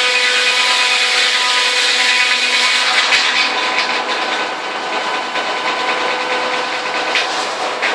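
Sawmill breaking-down saw cutting lengthwise through a log: a steady, loud rasp of the blade in the wood, with a held whine. From about three seconds in it eases slightly and gets more clattery.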